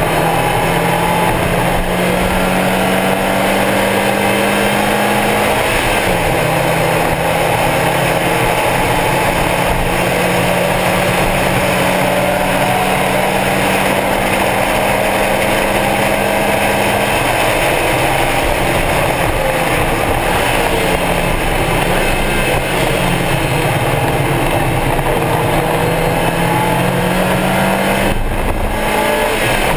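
Stock Mazda Miata's four-cylinder engine running hard at high revs on track, under heavy wind and road noise. The engine note drops in pitch about six seconds in, then climbs slowly again, and wavers later on.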